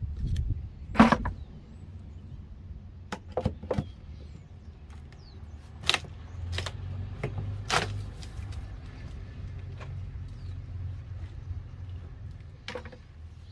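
Scattered sharp knocks and cracks of old wall boards being pried loose and torn out during demolition, over a steady low hum.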